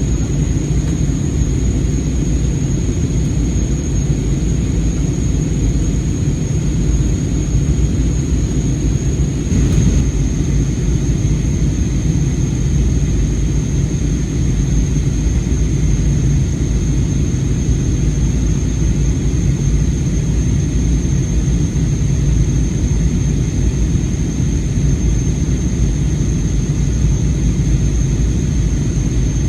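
Steady drone of an airliner cabin, heard from a passenger seat: a constant low rumble with a thin, steady high whine over it.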